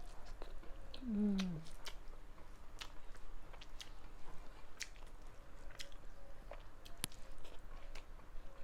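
Close-up chewing of a rice-and-curry meal, with scattered wet mouth clicks and lip smacks. A brief low murmur, like an 'mm', comes about a second in.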